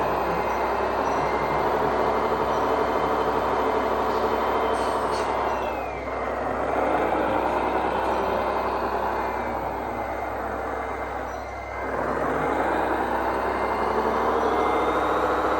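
Radio-controlled model trucks running, a whining motor and gear noise that drops off and winds back up twice as they slow and speed up again.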